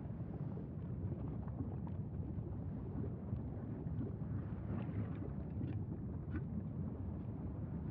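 Steady low rumbling noise with a few faint, short high ticks about halfway through.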